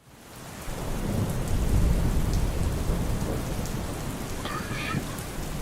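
Rain ambience with a low thunder rumble, fading in over the first second and then holding steady. A brief pitched sound comes through the rain near the end.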